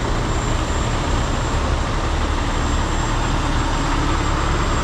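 Heavy diesel truck engine idling: a steady low rumble with no change in pitch.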